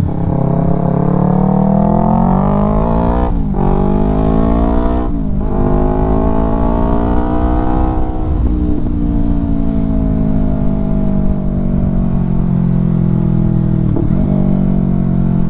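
Yamaha R3's parallel-twin engine through an Akrapovic full-system exhaust, accelerating hard with two quick upshifts, about three and five seconds in, each dropping the revs before they climb again. After about eight seconds the revs fall off slowly and settle into a steady cruise.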